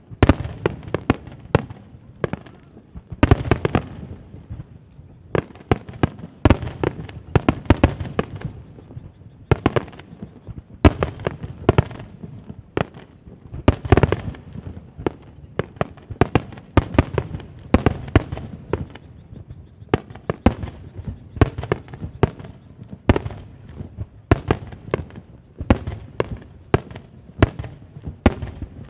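Aerial fireworks shells bursting in quick, irregular succession, several bangs a second, each with a rolling echo over a continuous low rumble.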